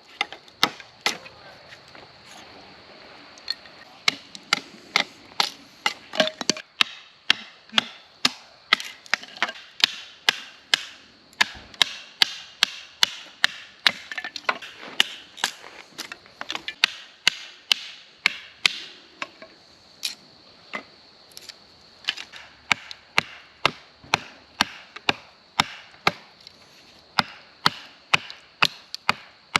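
Wood being chopped at camp: a long run of sharp chopping strikes, about two a second, with a couple of short pauses.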